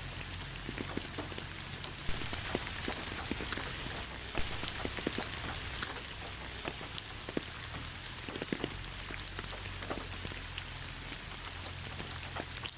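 Steady rain falling, a constant high hiss with many close individual drops ticking on a hard surface.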